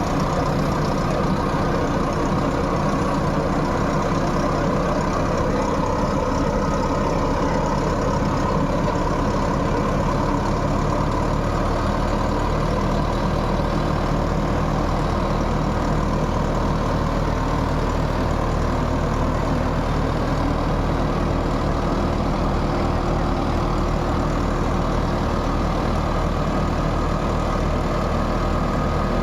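Heavy farm-machine diesel engine running steadily at an even speed, from a tractor or chain harvester working in the field.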